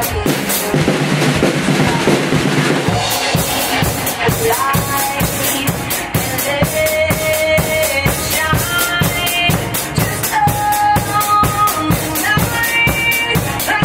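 Acoustic drum kit played along to a pop backing track. A cymbal wash fills the first few seconds, then a steady beat of kick and snare strokes runs under a pitched melody line.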